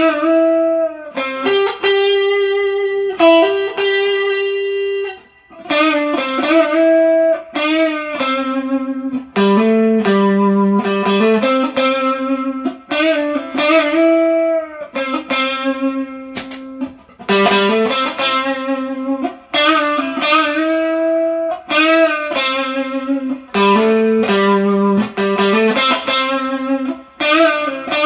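Kiesel Vader electric guitar on its neck pickup, played through a dual Bluesbreaker-style overdrive pedal with spring reverb: a single-note lead line of held and bent notes with light overdrive. The playing briefly drops out about five seconds in.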